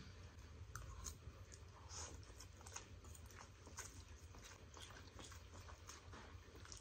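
Faint chewing and mouth sounds of several people eating instant noodles, with scattered small clicks and smacks.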